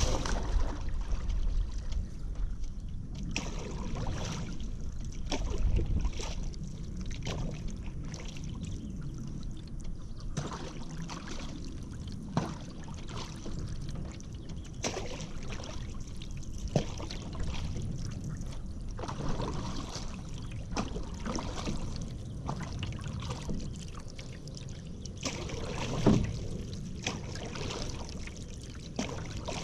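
Hand paddle dipping and splashing in river water, strokes coming irregularly about once a second, over a low rumble.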